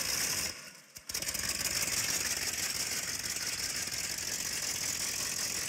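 Hot rod engine sound effect running steadily, with a brief dip just under a second in.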